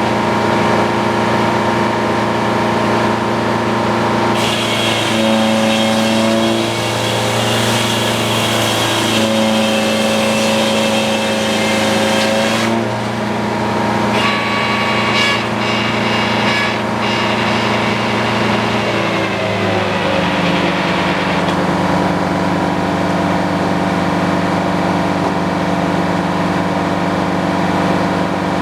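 Sawmill engine running steadily at working speed while the blade cuts through a cherry log, with a high hiss of cutting from about four to twelve seconds in. About twenty seconds in, the engine drops to a lower, steady idle.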